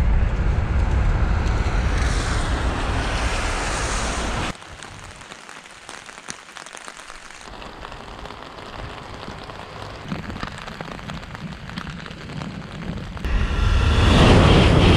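A deep rumbling rush of wind on the microphone, then a quieter stretch with faint scattered taps, and from about 13 seconds in the loud rushing noise of a Tokaido Shinkansen N700-series train coming out of a tunnel at high speed.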